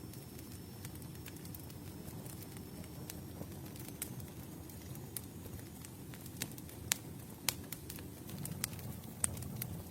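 Campfire burning: a steady low rumble of flames with scattered sharp crackles and pops, a few louder pops in the second half.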